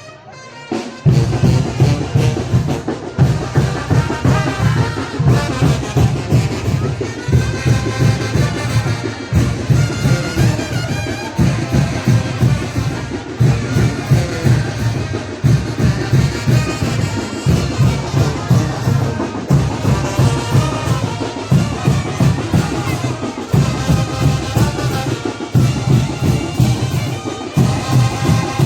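A Mexican wind band (banda de viento) playing chinelo dance music: trumpets and trombones over a steady, pulsing bass-drum beat. It comes in loudly about a second in.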